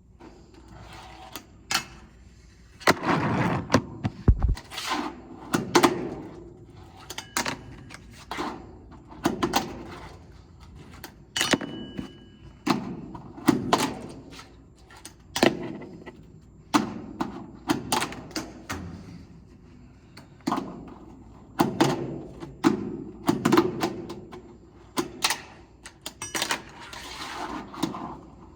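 Fingerboard on LEEFAI trucks and wheels being ridden through tricks: stretches of small wheels rolling, broken over and over by sharp clacks of the deck and trucks popping and landing on a hard surface.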